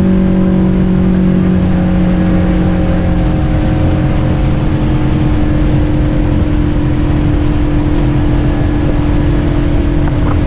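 Boat motor running steadily with the boat under way. One of its lower tones fades out about three seconds in, while the rest holds steady over a low rumble.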